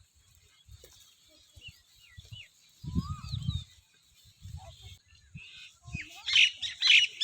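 Birds chirping in short, bending calls, with a denser burst of calls near the end; low rumbles come and go underneath.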